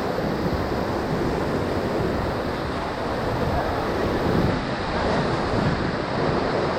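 Whitewater of a river rapid rushing steadily around a raft, with wind noise on the microphone.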